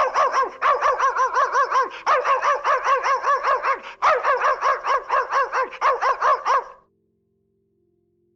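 An animal giving a fast run of high, pitched yapping calls, each rising then falling, about six a second, in three runs that stop suddenly near the seven-second mark.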